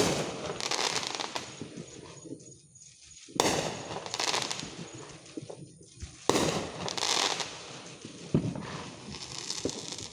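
Aerial fireworks going off: three bangs a few seconds apart, each followed by a crackling tail, with a smaller pop near the end.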